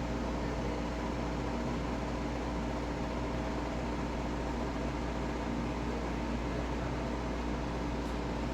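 Steady machine hum over a hiss, with several held tones and no change in level, like a running fan or blower.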